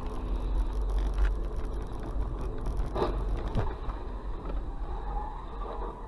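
Car driving: a steady low road and engine rumble, with a few short knocks.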